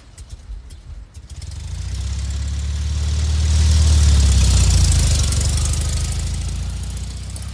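A car engine running unevenly at first, then a steady low engine rumble with hiss that swells to a peak about four seconds in and slowly fades, as a car drives past.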